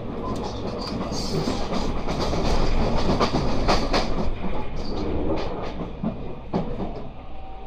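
Running noise of a JR West 223 series 2500 electric train, heard from inside: wheels rumbling and clicking over rail joints. The noise swells for a few seconds as it runs close past another train on the next track, then eases.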